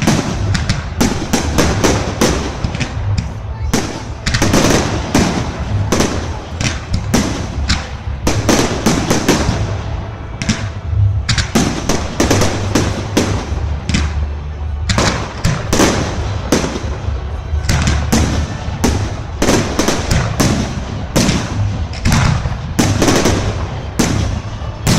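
Fireworks display: a dense, irregular run of loud bangs and crackles, several a second, over a continuous low rumble.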